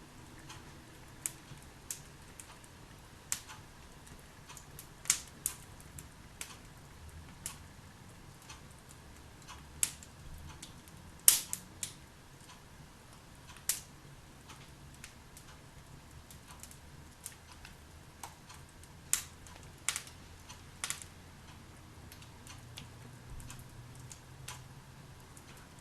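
Wood fire burning in a fireplace, crackling with irregular sharp pops, the loudest about eleven seconds in, over a faint steady background.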